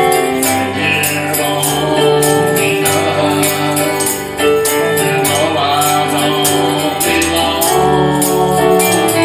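Gospel music: sustained keyboard chords over a bass line, with jingling percussion on a steady beat about twice a second and singing.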